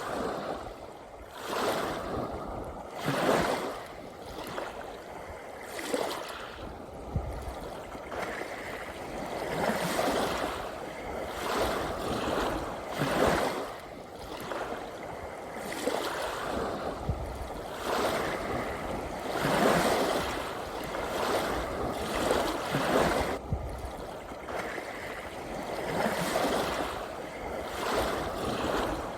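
Ocean waves washing in, swelling and easing every few seconds over a steady rush of surf.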